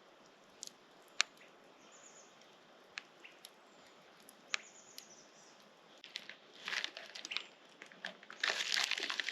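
Plastic packaging crinkling in bursts as it is handled, starting a little past halfway and getting busier toward the end, after a few scattered light clicks.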